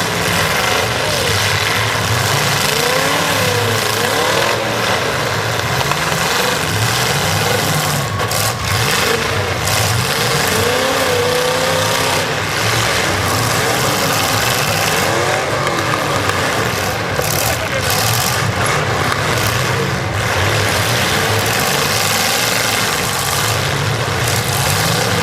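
Several demolition derby cars' engines revving hard at once, pitches rising and falling over one another, with occasional crashes of cars hitting each other.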